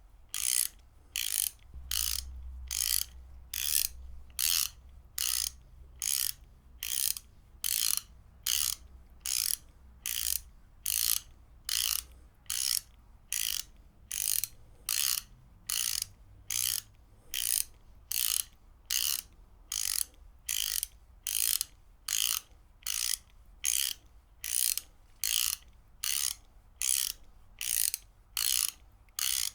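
Ratchet wrench being worked back and forth, its pawl clicking over the gear teeth in short rasping bursts. The bursts come in a steady rhythm, a little more than one a second.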